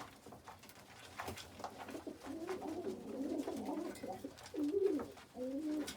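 Domestic pigeons cooing in a loft: several low, overlapping coos from about two seconds in, with a few faint clicks.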